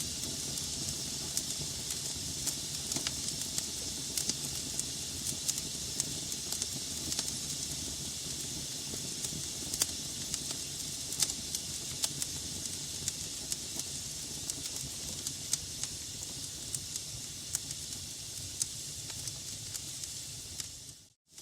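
Log fire crackling in a fireplace: a steady hiss with frequent sharp pops and snaps. Near the end it fades out to near silence for a moment and then comes back.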